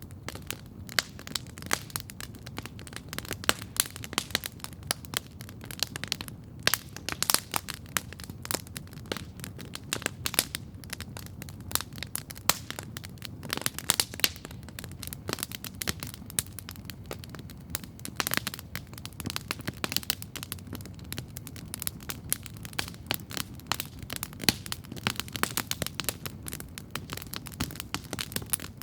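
Wood campfire crackling steadily, with many sharp irregular pops and snaps over a soft low rumble of flame.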